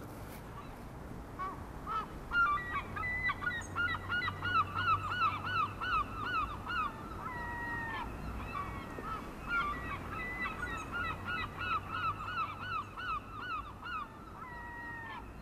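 Birds calling: a long run of short, quick calls repeated several times a second, broken by a few longer, falling calls.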